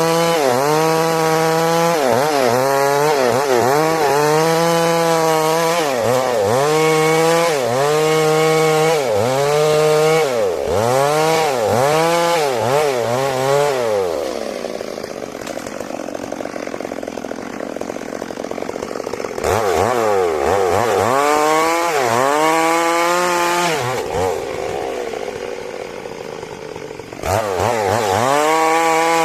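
Stihl MS 382 two-stroke chainsaw ripping a large trembesi log lengthwise, its engine speed dipping and climbing about once every second or so as the bar is worked into the cut. Midway it runs lower and quieter for several seconds, then climbs back to full speed near the end.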